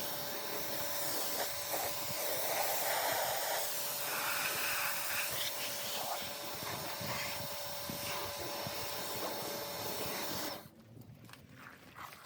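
Pressure washer jet spraying water to rinse snow foam off a car's bodywork: a steady hiss of spray over the machine's even hum, which cuts off about ten seconds in.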